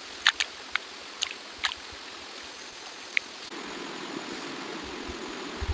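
Stream water running steadily, with a few short sharp ticks in the first two seconds and one more about three seconds in.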